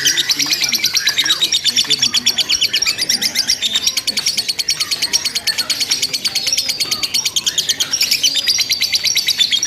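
Lovebirds in a long unbroken ngekek: a fast, high chattering trill of about ten notes a second, the continuous rattling song that lovebird contests judge for its length.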